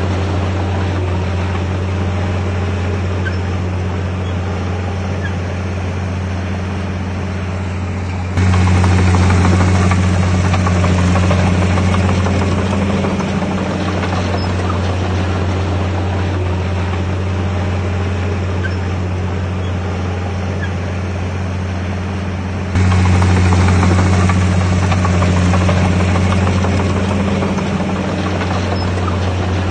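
Heavy diesel engine of a Komatsu D51PX bulldozer running with a steady low drone. It steps abruptly louder about eight seconds in and again about twenty-three seconds in, each time easing back over the next few seconds.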